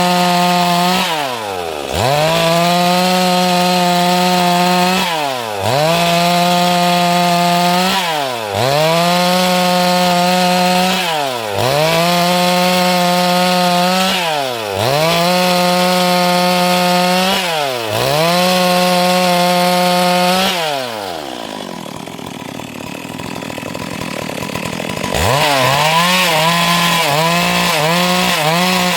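Stihl MS 382 two-stroke chainsaw running at full throttle while cutting wood. Its engine note drops briefly and climbs back about every three seconds. About two-thirds in it falls away to a quieter rough noise for a few seconds, then revs up again in quick short bursts.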